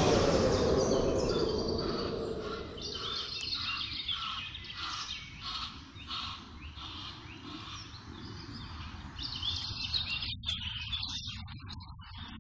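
Bird chirps repeating about twice a second over steady outdoor background noise, after a loud rush of noise that fades over the first two seconds.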